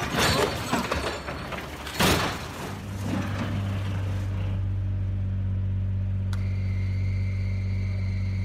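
Loud rumbling crash noise, with a second crash about two seconds in, then a steady low mechanical drone like a running engine.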